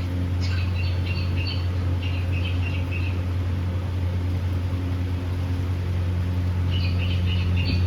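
Cockatiel chirping in quick strings of short high notes for a few seconds, falling quiet, then starting again near the end, over a steady low hum.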